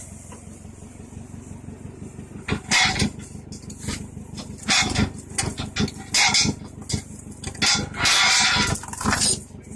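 Loud metallic clanks and knocks, one after another from about two and a half seconds in, with a longer rattling stretch near the end, over the steady low running of an idling vehicle engine.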